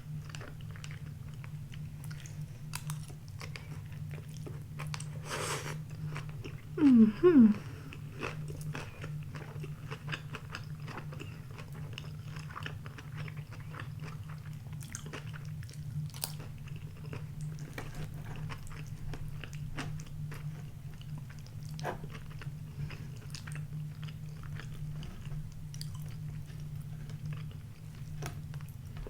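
Close-miked chewing and crunching of a grilled eel donburi with rice, cucumber and tempura: wet mouth clicks and crunches throughout, over a steady low hum. About seven seconds in there is a brief, louder hummed sound that rises in pitch twice.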